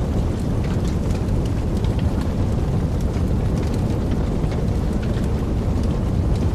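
Wood fire burning in a fireplace: a steady low roar of flames with scattered crackles and small pops.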